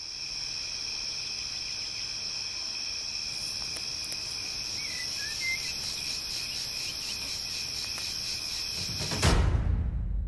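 Steady chorus of crickets, a high continuous trill with a faster pulsing layer above it, and a brief bird chirp about five seconds in. About nine seconds in, the chorus cuts off suddenly into a deep low boom that fades away.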